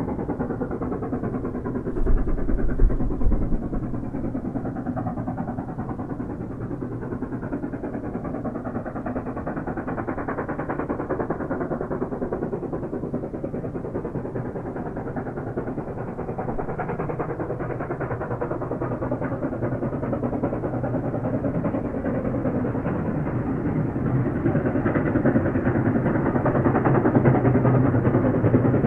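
China Railways SY-class steam locomotive working, a steady dense chuffing and machinery noise that grows louder over the last third. A short low rumble comes about two seconds in.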